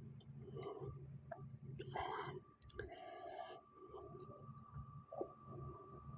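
Soft mouth sounds of someone eating spicy noodles: quiet chewing and wet mouth clicks, with two short breathy sounds about two and three seconds in.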